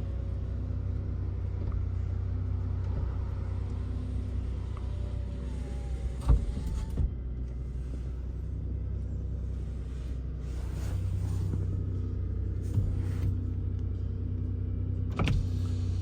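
Car engine idling, heard from inside the cabin as a steady low hum, while the power windows are worked: a faint motor whine and several sharp clicks from the window switches and the glass stopping.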